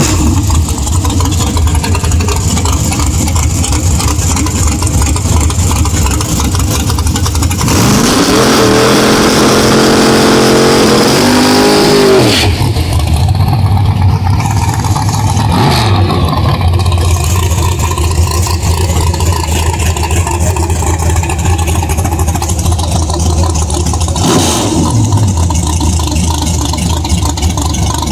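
Drag race car engine running with a loud, steady rumble. About eight seconds in it revs up hard, its pitch climbing for about four seconds before it cuts back, and it gives shorter revs later on.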